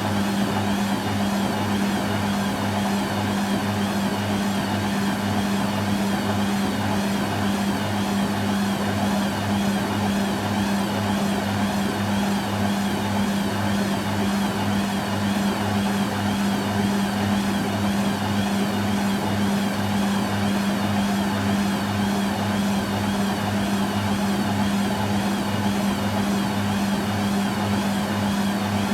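Hoover Quattro washing machine running steadily through a rinse or spin stage: a constant hum with a regular pulsing throb beneath it and no change in speed.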